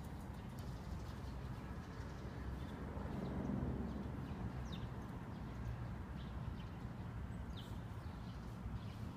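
Faint outdoor ambience: short, high bird chirps come and go over a steady low rumble.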